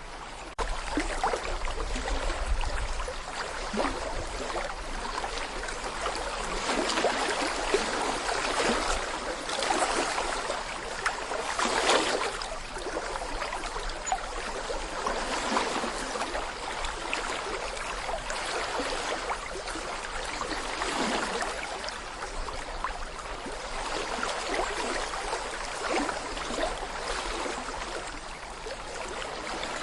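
A small brook babbling over stones, a steady rush of water with quick gurgles and splashes that swells and eases. A low rumble underlies the first few seconds.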